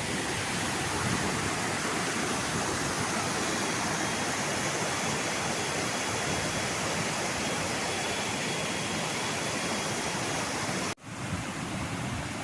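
Waterfall rushing in a steady, even wash of falling water. About eleven seconds in it cuts off abruptly and comes back slightly quieter.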